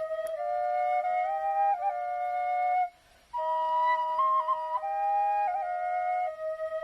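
Two B♭ quenas, one of grenadilla wood and one of Honduras rosewood, playing a slow melody in two-part harmony, with a short break between phrases about three seconds in.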